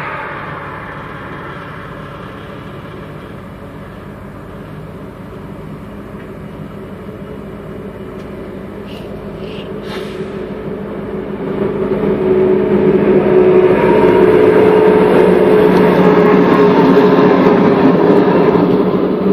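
A passing car fades away at the start. From about eleven seconds in, a Norfolk Southern train led by a GP38-2 diesel locomotive passes close by, growing loud with a steady engine drone and the rumble of wheels on the rails.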